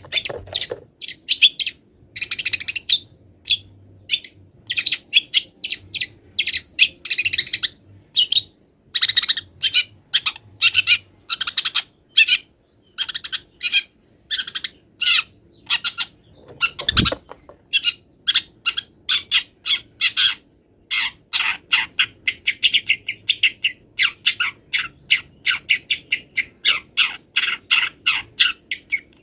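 Long-tailed shrike (cendet) singing a fast, varied run of chirps, squawks and trills, full of mimicked calls of other wild birds. A single low thump sounds about halfway through.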